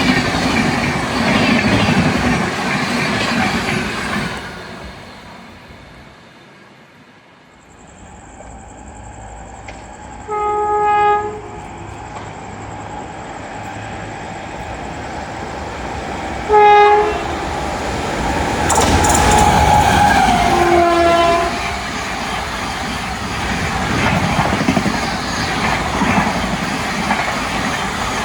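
A passing train's rumble fades away, then an approaching train's locomotive horn sounds three times: a blast of about a second, a short toot, and a third blast that drops in pitch as it goes by. Rail rumble and wheel clatter build up under the later horns.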